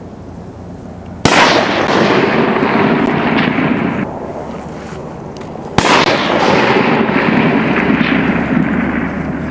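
Two sniper rifle shots about four and a half seconds apart, each a sharp crack followed by a long rolling echo that lasts about three seconds. The first echo cuts off abruptly about four seconds in.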